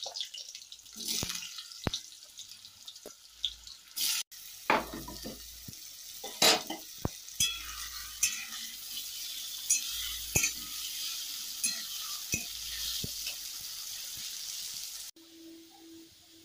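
Diced potatoes frying in hot oil in an aluminium kadai: a steady sizzling hiss, with a metal spatula clicking and scraping against the pan as they are stirred. The sizzle cuts off abruptly near the end.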